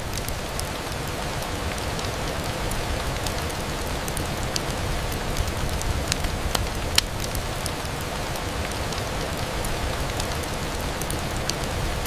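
Steady rain on a window glass, an even hiss with a low rumble beneath it. Scattered sharp ticks and pops sound through it every second or so.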